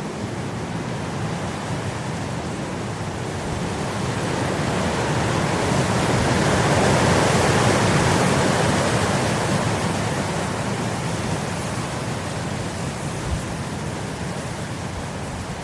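Wind blowing across grass, a steady rushing noise that swells into a stronger gust about halfway through and then dies back down.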